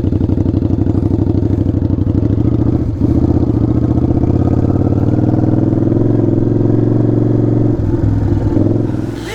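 Motorcycle engine running while riding, steady and pulsing, with a brief break in the sound about three seconds in.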